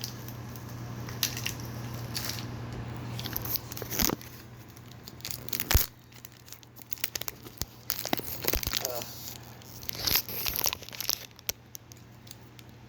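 Protein bar wrapper being torn open and crinkled: irregular crackling and tearing with scattered clicks, and one sharp knock about six seconds in.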